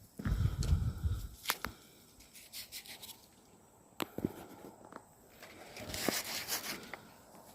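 Footsteps crunching and rustling through dry leaf litter and twigs, with sharp snaps of twigs and a longer crackling rustle about six seconds in. A low rumble, louder than the rest, comes in the first second.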